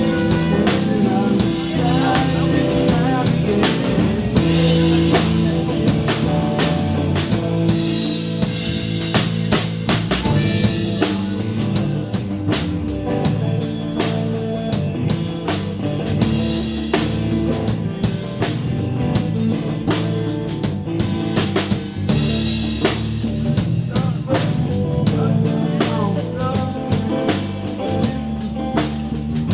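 Live blues band playing: electric guitar and bass over a full drum kit keeping a steady beat.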